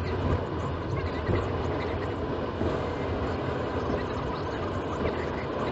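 Steady engine and road noise of a moving car, heard from inside the cabin through the dashcam's own microphone.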